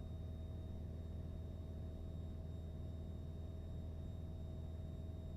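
Piper PA-28 light aircraft's piston engine running steadily in cruise, a low unchanging drone heard through the cockpit intercom feed.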